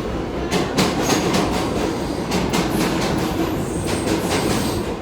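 Train running along the track close by: a steady rumble with an uneven run of sharp clicks from the wheels passing over rail joints.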